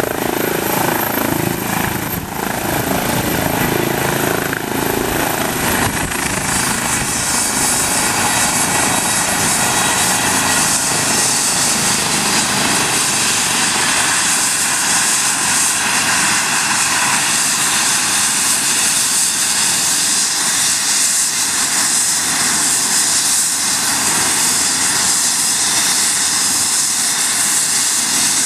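Eurocopter EC135 P2 helicopter running close by: loud, steady rotor and twin-turbine noise. A high whine drops a little in pitch about five seconds in.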